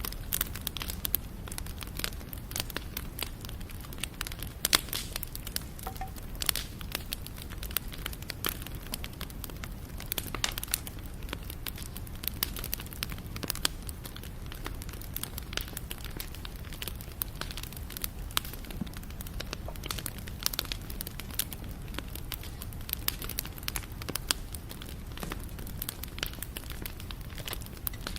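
Wood fire burning, with a steady low rumble and frequent irregular crackles and sharp pops of burning wood.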